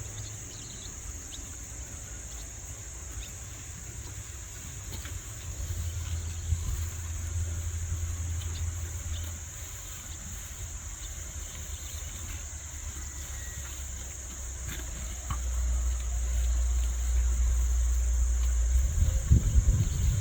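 Insects droning steadily on one high pitch. A low rumble swells from about six seconds in, eases, then grows louder from about fifteen seconds on.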